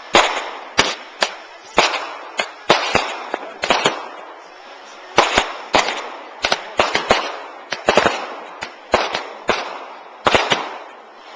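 Fireworks bursting overhead: about twenty sharp bangs in quick, irregular succession, some in clusters, each trailing off. There is a brief lull about four seconds in.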